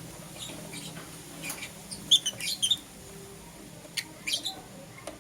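Lovebirds giving short, sharp high chirps in two quick clusters, one about a second and a half in and another about four seconds in, over a faint low hum.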